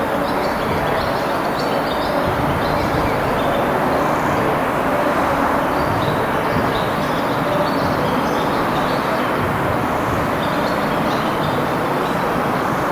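Train rolling along the station tracks: a loud, steady rumble of wheels on rails, with faint high chirps over it.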